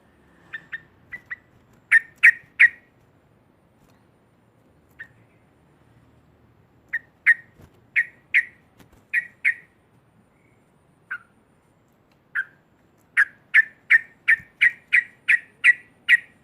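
A trucuk (yellow-vented bulbul) calling in short, sharp, loud notes, in clusters: three about two seconds in, a string of seven in the middle, and a fast run of about ten, roughly three a second, near the end.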